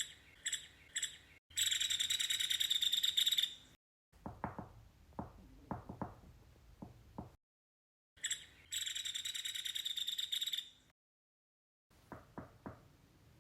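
Nuttall's woodpecker calling: a few short sharp notes and then a fast rattle lasting about two seconds, alternating with irregular sharp taps. The sequence comes twice, broken by abrupt gaps of silence.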